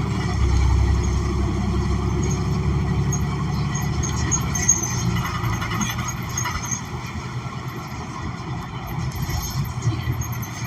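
Cabin sound of a New Flyer XN40 city bus under way: the Cummins Westport ISL G natural-gas engine and road noise make a low rumble that gradually eases and gets quieter, then picks up slightly near the end.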